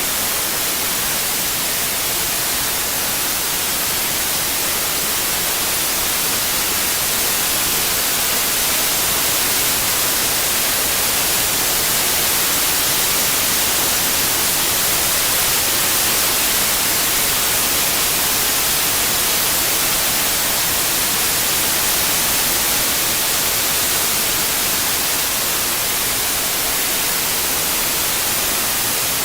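Synthetic white noise, an even, steady hiss strongest in the highs, played as a tinnitus masker.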